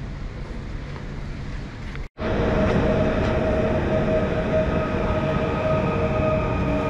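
Railway train noise: a low rumble, then, after a sudden cut about two seconds in, a louder train sound with a steady high whine over it.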